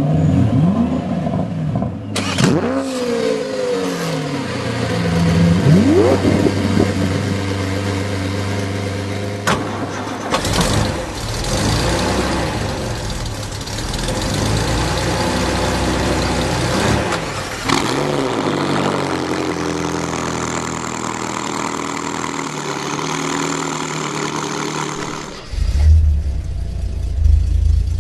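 A run of sports car engine clips: engines starting and revving, their pitch sweeping up and falling back, with several abrupt switches from one car to the next.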